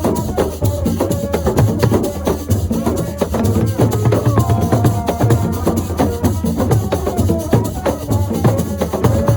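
Assiko music: fast, continuous hand percussion with struck and shaken rhythm instruments, and singing voices over it.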